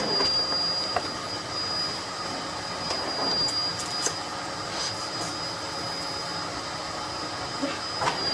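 Miele Blizzard CX1 bagless cylinder vacuum cleaner running steadily with a constant high-pitched whine, and a few light clicks as it picks up debris.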